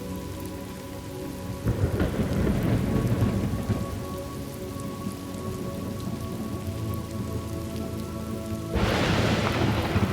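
Thunderstorm ambience: steady rain with a roll of thunder starting about two seconds in, and a second, sharper and louder crack of thunder near the end.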